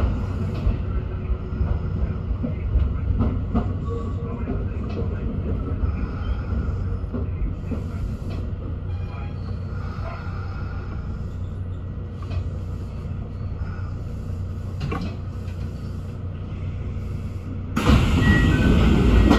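Kintetsu express train running on rail as it pulls away from a station, heard from the front of the car: a steady low rumble of motors and wheels. It grows suddenly louder near the end.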